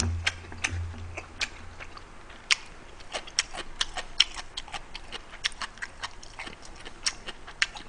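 A man chewing a mouthful of noodles close to the microphone: irregular wet mouth clicks and lip smacks, several a second. A low steady hum sounds through the first second and a half.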